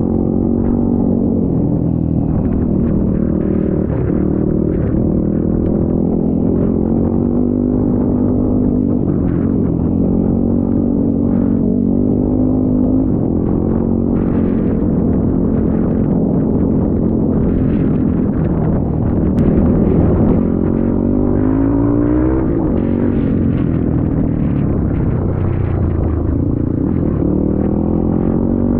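Off-road motorcycle engine running under way, holding a steady pitch, then revving up about two-thirds through and dropping and rising again near the end as the throttle changes.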